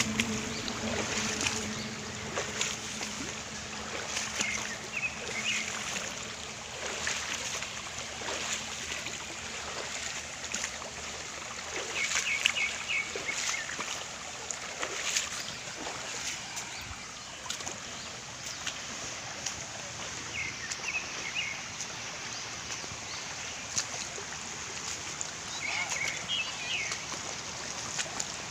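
Water splashing and lapping in an uneven wash of short splashes, with a few brief bird chirps now and then.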